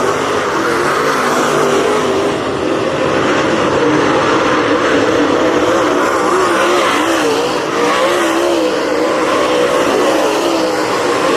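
Race car engines running hard at speed, several engine notes at once wavering up and down as the cars lift and get back on the throttle.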